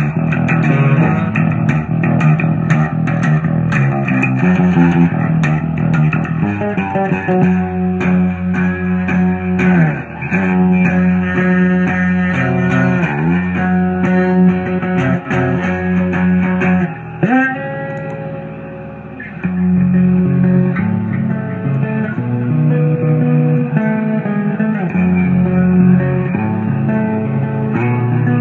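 Instrumental music: electric guitar playing over bass guitar, with several notes that slide down in pitch and a brief quieter stretch about two-thirds of the way through.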